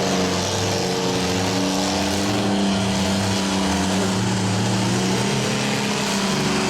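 Engines of the mini trucks and vans in a demolition derby running and revving, several engines overlapping, with their pitch rising and falling as the drivers manoeuvre. No clear crash impact is heard.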